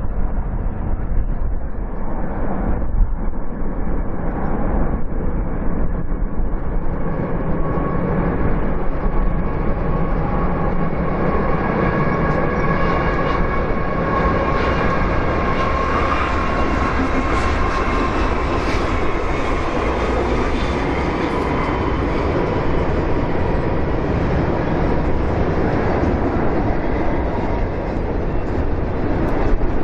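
A BNSF freight train rolling past, a steady loud rumble of wheels on rail with some clickety-clack, its hiss growing brighter about a third of the way in.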